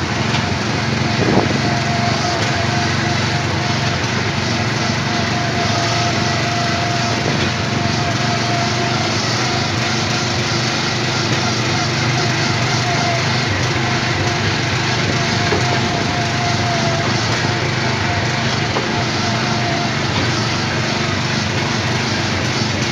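Small petrol engine of an Autopia ride car running steadily at a constant speed, with a thin whine over the drone that fades out about two-thirds of the way through.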